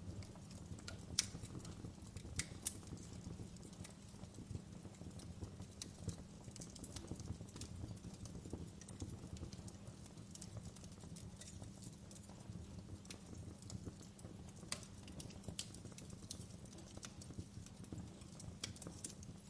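Wood fire burning in a fireplace: a low steady rumble with irregular sharp crackles and pops from the burning logs, a few each second.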